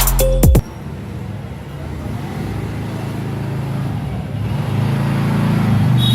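Electronic background music cuts off just over half a second in, leaving a motor vehicle's engine running steadily with road noise. The engine gets louder about four seconds in.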